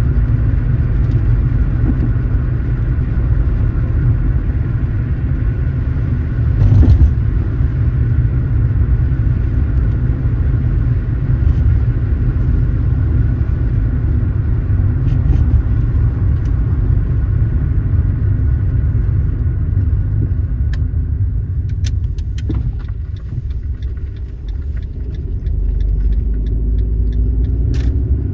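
Car driving, with a steady low road rumble. Past twenty seconds the rumble eases and a run of sharp clicks sounds, then the engine's pitch rises as the car speeds up again.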